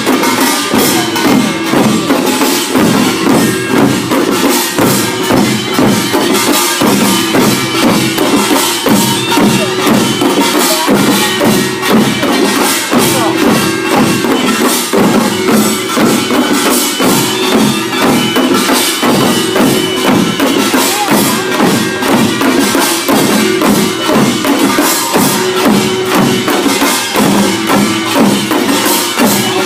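Korean pungmul percussion band playing a fast, steady rhythm: small gongs clanging over drums.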